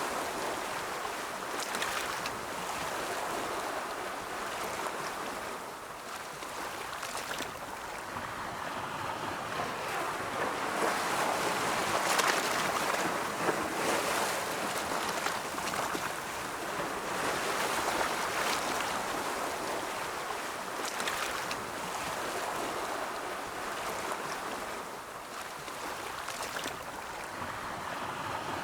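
Ocean waves rolling in: a steady surf wash that slowly swells and eases over several seconds at a time, loudest about twelve seconds in.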